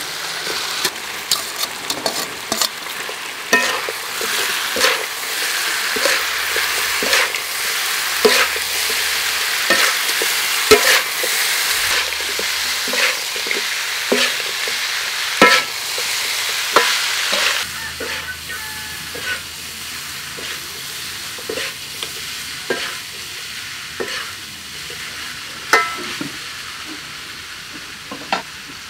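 Chicken wing pieces frying and sizzling in hot oil in an aluminium wok with garlic, lemongrass and chili, while a metal spatula scrapes and clinks against the pan as they are stirred. The sizzle is loudest over the first half and dies down somewhat after about seventeen seconds.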